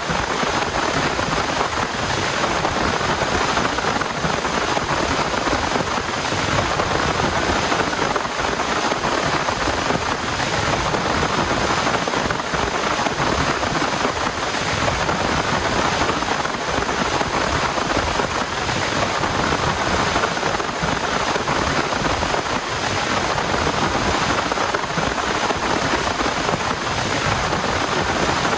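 Heavy rain falling steadily, a dense even hiss of drops with no break.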